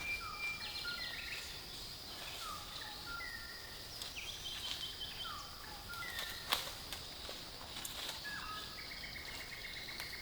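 Wild birds calling with short down-slurred whistles and quick trills over a steady, high insect drone, with one sharp click about six and a half seconds in.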